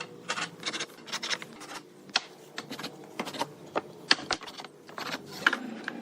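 Irregular light clicks and taps from hand work on wooden parts, a few per second and of uneven strength.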